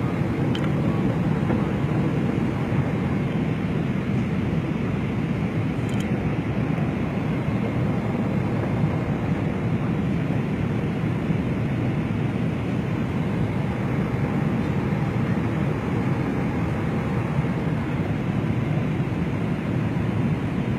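Steady rushing noise of engines and airflow heard inside an airliner cabin, even in level throughout.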